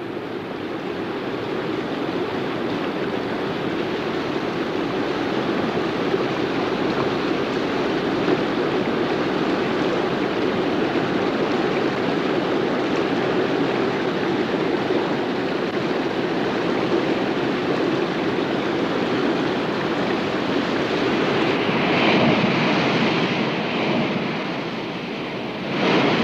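Rushing water, a steady, unbroken rush that swells louder twice near the end.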